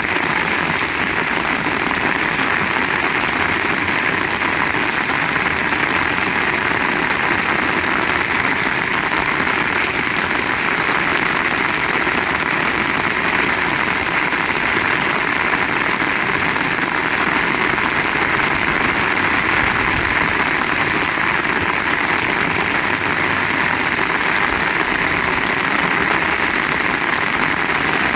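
Heavy rain falling steadily, a dense even hiss that holds without change.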